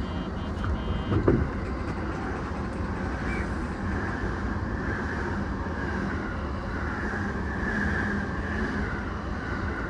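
Steady low hum and rumble inside a stopped E233-series electric train, its onboard equipment running while it stands still, with a single knock about a second in and a few faint beeps in the first second.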